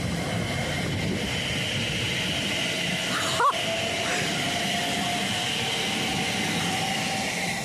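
Greater Anglia electric multiple unit running past and pulling away: steady rush and rumble of the carriages, with an electric traction whine that rises slowly in pitch. A brief sharp sound cuts in about three and a half seconds in.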